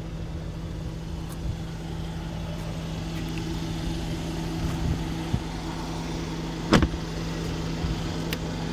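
Mercedes-Benz S550's 4.7-litre V8 idling, a steady low hum. A single sharp knock comes about seven seconds in.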